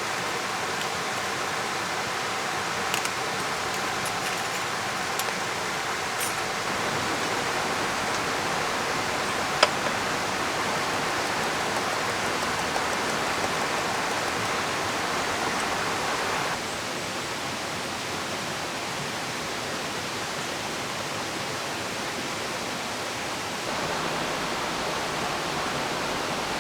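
Steady rushing of a mountain river mixed with falling rain, stepping abruptly louder and quieter a few times. A few faint sharp ticks sit on top, one clearer about ten seconds in.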